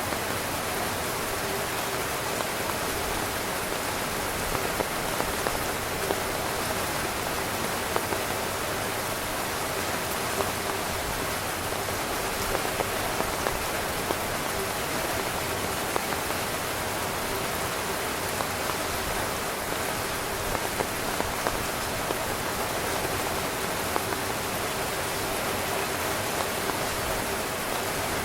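Steady heavy rain pattering on a tent, a dense hiss of drops with scattered sharper drop ticks.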